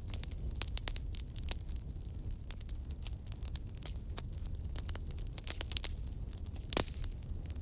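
Wood fire crackling: frequent sharp snaps and pops over a steady low rumble, with one louder pop near the end.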